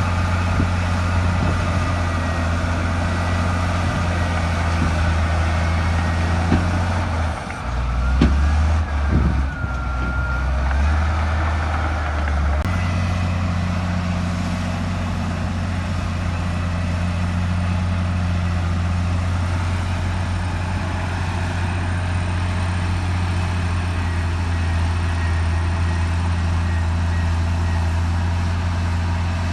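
Heavy diesel engine of a bulldozer running steadily under work. A quarter of the way in, its note drops lower and wavers for several seconds, then returns to the same steady hum.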